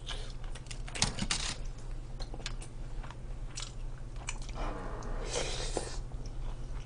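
Close-miked chewing and mouth sounds of a person eating grilled mackerel and rice, with scattered short clicks of a spoon and chopsticks against the dishes.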